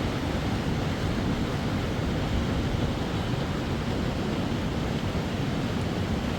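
Steady rushing noise at an even level, with no breaks or distinct events.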